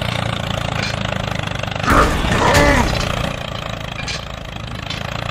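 Tractor engine idling steadily. About two seconds in comes a short loud burst of noise, followed by a brief voice exclamation.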